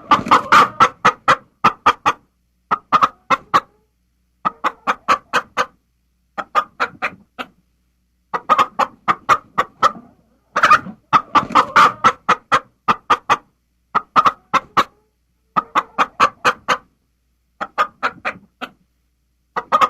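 A bird calling in rapid clucks, in bursts of about four to eight clucks lasting about a second each, with short pauses between bursts.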